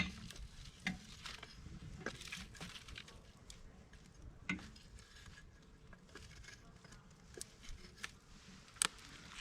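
Firewood burning in a campfire, crackling with scattered pops and snaps. The sharpest pops come right at the start and near the end.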